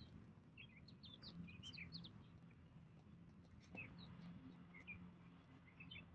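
Near silence with faint birdsong: short scattered chirps from small birds.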